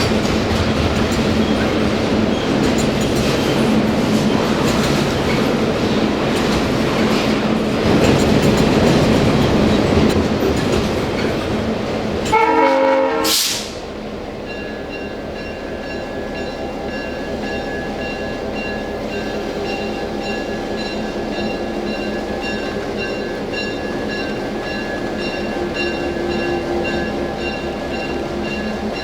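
Excursion train running on the rails with a steady rumble. About twelve seconds in, the horn gives one short blast. After that the sound drops to a quieter, steadier running noise with faint high whining tones.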